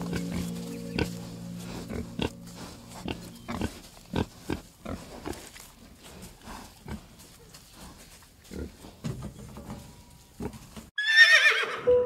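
Pigs grunting and snuffling in short, irregular bursts, with background music fading out in the first second. About a second before the end, a horse whinnies once, loud and falling in pitch.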